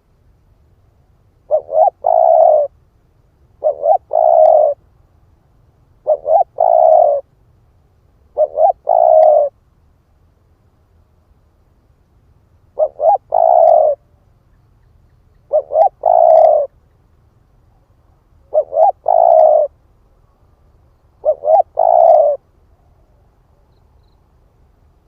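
Spotted dove cooing its territorial song, eight times. Each phrase is two short notes followed by a longer coo, with a pause of a second or two between phrases and silence over the last few seconds.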